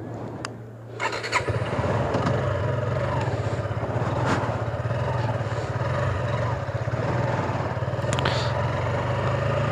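Suzuki Gixxer single-cylinder motorcycle engine coming to life about a second in, then running steadily.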